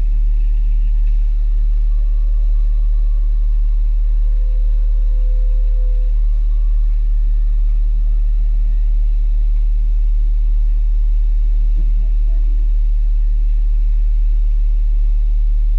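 Jeep Wrangler engine idling steadily: a loud, even, deep drone carried through the fender-mounted camera.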